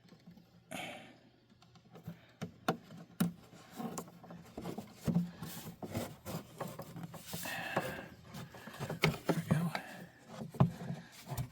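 Irregular clicks, knocks and rubbing of hard plastic parts being handled, as the coolant overflow reservoir is worked loose from its clips.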